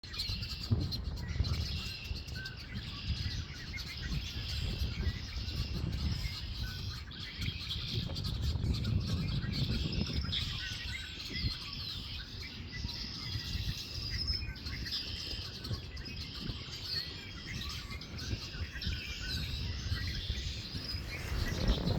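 Many small birds chirping and singing at once, a steady chorus of short high calls and trills, over a low rumble.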